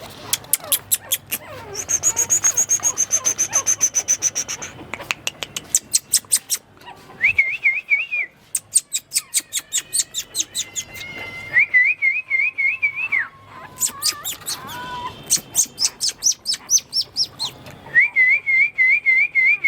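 A small bird singing: long runs of rapid, evenly spaced chirps, a long high steady whistled note about two seconds in, and repeated warbling trills.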